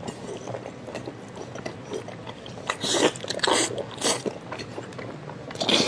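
Close-up chewing and biting on beef tendon, with a few louder wet bursts of eating noise about three, four and near six seconds in.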